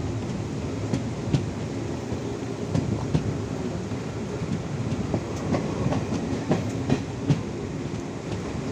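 Passenger train running, heard from inside the coach at an open window: a steady rumble of wheels on the track with irregular clicks and knocks, a few sharper ones in the second half.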